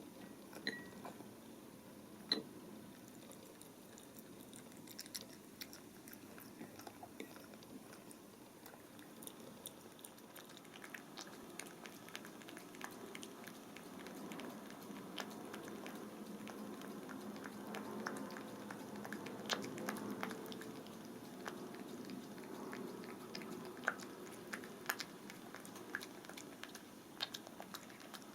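A cat eating wet food: soft chewing and licking with many small, irregular wet clicks, busier in the second half.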